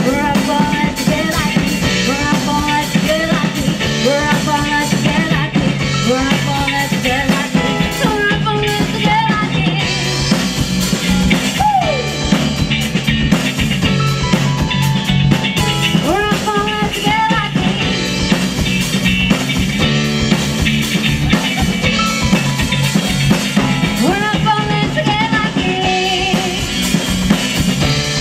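Live rock cover band playing amplified music, with a drum kit driving a steady beat under a gliding melody line.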